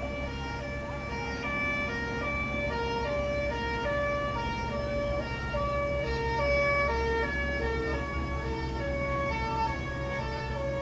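Two-tone emergency vehicle siren, alternating between a high and a low note about twice a second, over a steady low rumble.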